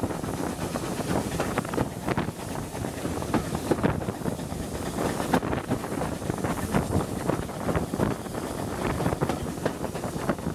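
Wind rushing over a microphone held out of the window of a moving railway coach, mixed with the irregular rattle and knocking of the train running along the track.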